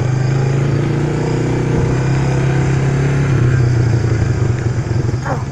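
Small off-road vehicle engine running steadily at low speed, heard close up from the vehicle it powers.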